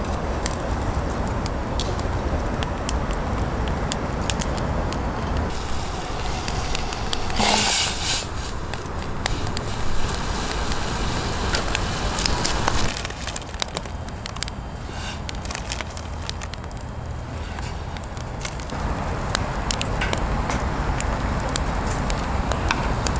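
Wood campfire crackling, with sharp pops scattered throughout over a steady low rumble. There is a brief hiss about seven and a half seconds in.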